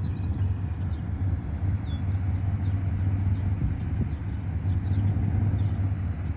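Truck running with a steady low rumble.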